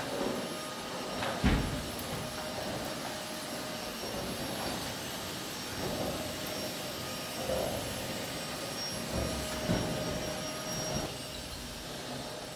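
Vacuum cleaner running with a steady whining drone, with a sharp knock about a second and a half in and a few softer bumps as it is moved about.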